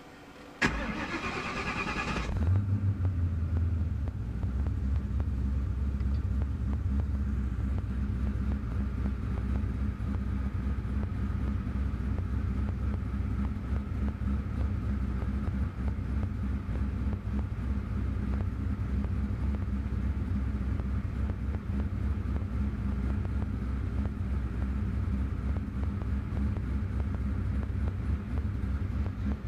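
Twin-turbo Ford 4.6 two-valve V8 with custom-ground cams being started: the starter whines for about two seconds before the engine fires, then it settles into a steady idle. The engine is running on its new cams with the tune not yet adjusted.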